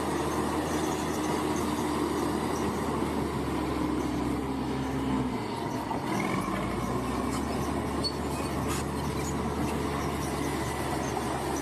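Bulldozer's diesel engine running steadily under work. About five and a half seconds in, its note dips briefly, then picks back up.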